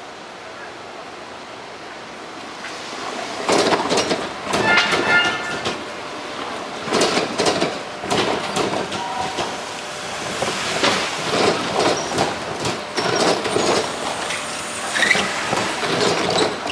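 A train passing over a level crossing, its wheels clattering in groups over the rail joints, with a brief high wheel squeal about five seconds in. It begins about two and a half seconds in and keeps on loudly.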